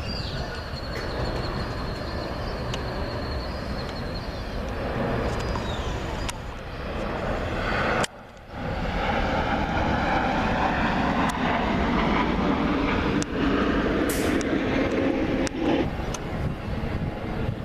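Jet airliner engines as a plane passes close by, with a high thin whine sliding slightly lower over the first few seconds. The sound breaks off briefly about eight seconds in and comes back louder.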